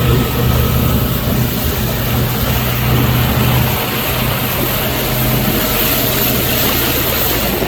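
Motorboat engine running steadily with a low hum, under a loud rushing hiss of wind and water.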